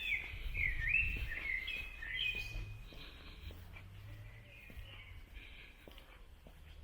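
A songbird singing a run of varied whistled phrases, loudest over the first three seconds and fainter after, over a low background rumble and a few faint footsteps.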